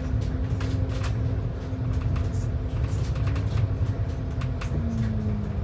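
Bus engine and drivetrain running, heard from inside the bus: a steady low rumble with a whine that starts to fall in pitch near the end as the bus slows. Light rattles and clicks from the cabin come through.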